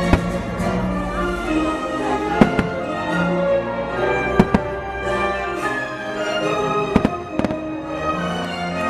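Fireworks bursting with sharp bangs every couple of seconds, two close together about halfway through, over an orchestral show soundtrack with strings.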